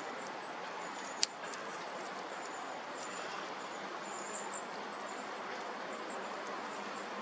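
Bonfire burning with a steady hiss and scattered crackles, one sharp pop about a second in.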